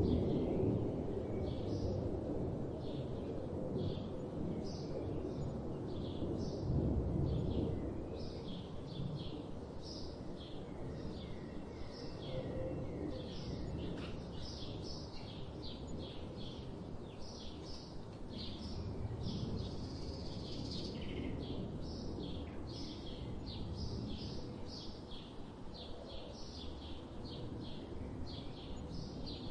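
Birds chirping: many short, quick chirps repeated throughout, over a steady low background noise that swells briefly near the start and about seven seconds in.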